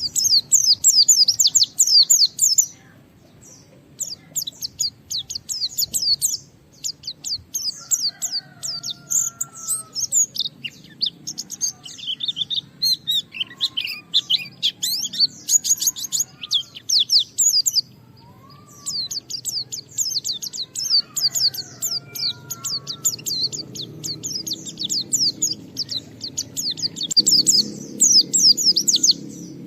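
White-eye (pleci) singing hard: long runs of rapid, high-pitched twittering chirps, broken by a few brief pauses.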